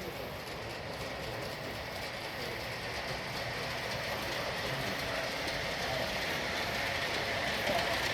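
G-scale model train running along garden railway track, its wheels running over the rails with a steady rolling noise that grows gradually louder as it approaches.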